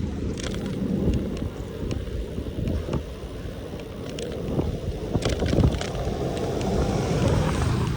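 Wind rumbling on the microphone while riding a bicycle, with a few light clicks and rattles scattered through it.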